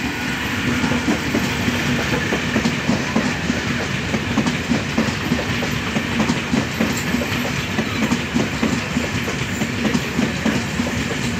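Passenger train passing close at speed, its wheels clattering over the rail joints in a rapid, steady rhythm over a low hum.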